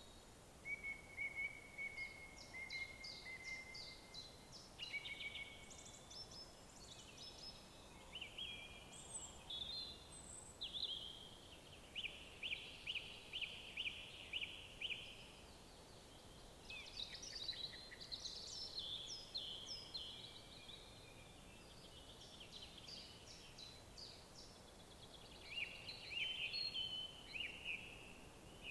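Several songbirds singing over one another: short high chirps, whistled glides and rapid trills. The trills include a run of about a dozen quick repeated notes near the middle. Underneath lies a faint, steady background hiss.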